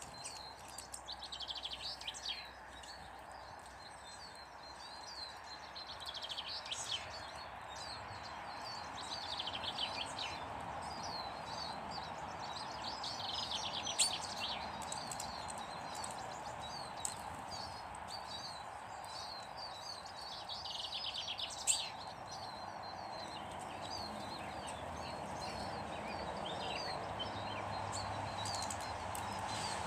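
Small garden birds singing and chirping: one falling song phrase repeats every few seconds over many short high chirps, against a steady background noise, with a couple of brief sharp clicks midway.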